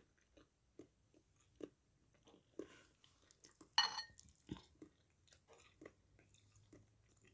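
A person chewing a mouthful of chewy stir-fried pig ear mushrooms: faint, irregular wet mouth clicks and smacks, with one louder brief noise nearly four seconds in.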